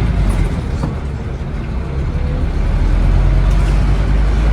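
Scania N270UD OmniCity double-decker bus's five-cylinder diesel engine running, easing off about a second in and building up again about three seconds in.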